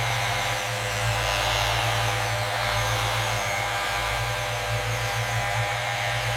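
Steady, unbroken whir of an electric motor, a low hum under a hiss.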